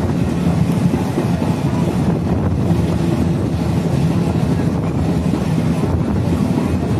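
Dadar Express passenger coach running steadily through a station: a continuous loud rumble of wheels on the rails, with wind buffeting the microphone.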